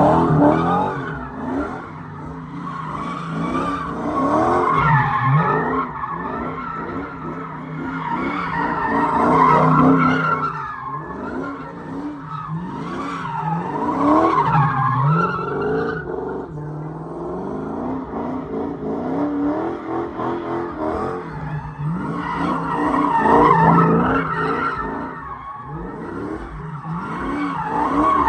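A car being driven hard, with tyres squealing and skidding while its engine revs up and down again and again.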